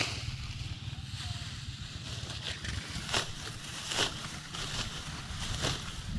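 Rice stalks being cut by hand with a sickle: short crunchy strokes repeating roughly once a second, over a low rumble of wind on the microphone.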